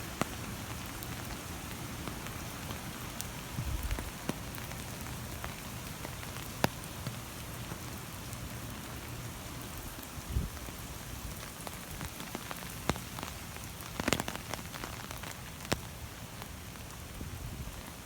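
Steady hurricane rain falling on hard surfaces, with scattered sharper drop hits and a few short dull thumps.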